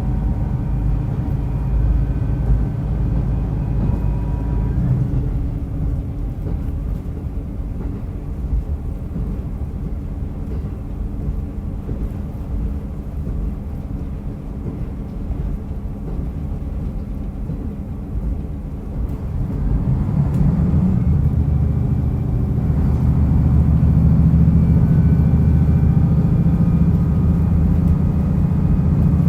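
Diesel railcar running along the line, its wheels rumbling on the track. The engine note fades about five seconds in while the train coasts, then about twenty seconds in the engine powers up again with a louder, steady low drone.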